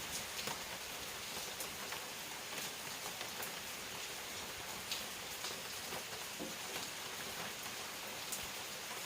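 Steady rain falling, a constant hiss with scattered individual drops ticking sharply on a nearby surface.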